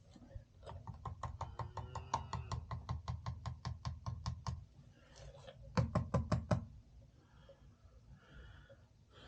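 A fast, even run of light knocks, about six a second, lasting about four seconds, followed shortly after by five louder knocks in quick succession.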